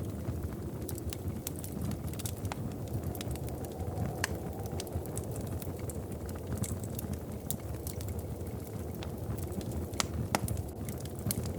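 Wood fire crackling in a fireplace: irregular sharp pops and snaps over a steady low rumble, with a few louder pops about ten seconds in.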